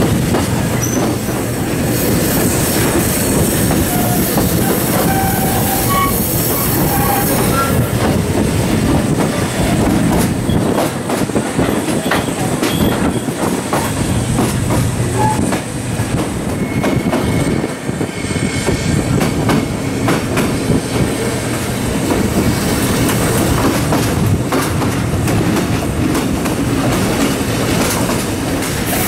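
Passenger train running, heard from on board: a steady rumble of wheels on the rails with irregular clicks from the rail joints and a few brief high squeals.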